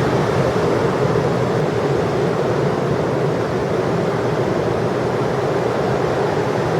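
Steady roar of heavy ocean surf from large hurricane swell, with no breaks or distinct impacts.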